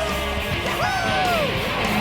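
Rock band playing loud rock music led by electric guitar, with notes bending up and down near the middle.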